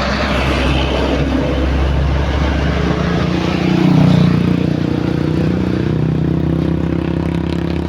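Vehicle engine running close by, swelling and rising in pitch about four seconds in, then easing back to a steady run.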